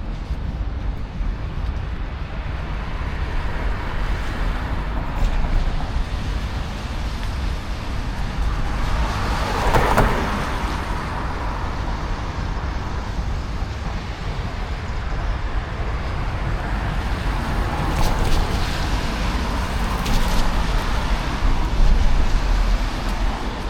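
City road traffic passing, one vehicle swelling loudly past about ten seconds in and others a little later, over a steady low rumble.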